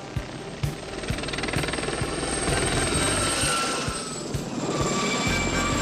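Helicopter in flight, its rotor beating steadily about twice a second, under a dramatic music score.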